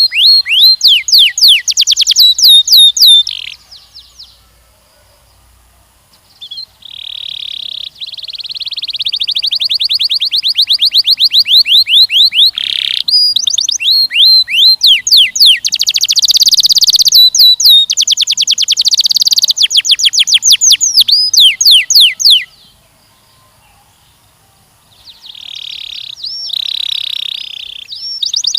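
Canary singing loudly in long phrases of rapid trills and repeated sweeping notes, with one short pause a few seconds in and another near the end before the song picks up again.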